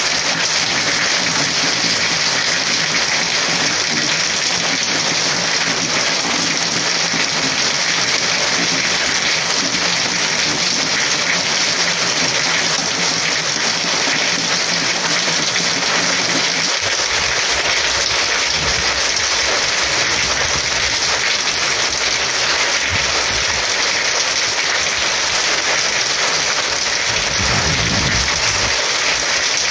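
Heavy, steady downpour of rain, an even dense hiss of drops on surfaces, with a brief low rumble near the end.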